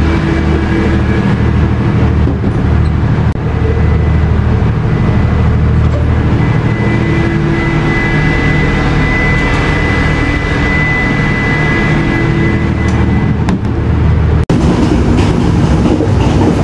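Passenger train running along the track, heard from inside the carriage: a loud, steady low rumble of engine and wheels, with a thin high whine for several seconds in the middle.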